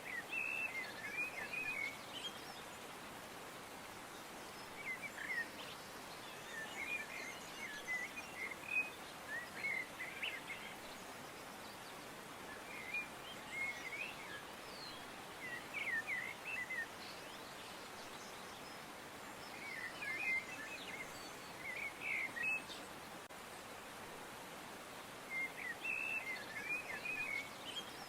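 Songbirds chirping in short phrases of quick notes that recur every few seconds, over a steady background hiss.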